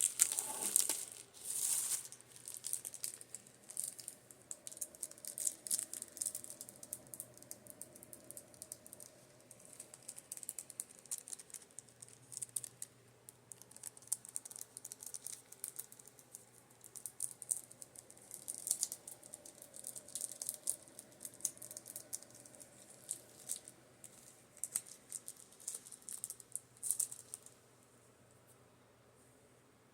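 Makeup brushes being tapped: quick, light clicking taps in irregular flurries that stop a couple of seconds before the end, over a faint steady fan hum.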